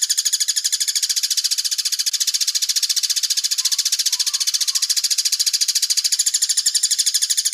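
Recorded bird call looped as a songbird tutor track: a fast, even, high-pitched rattling trill of about a dozen notes a second, unbroken.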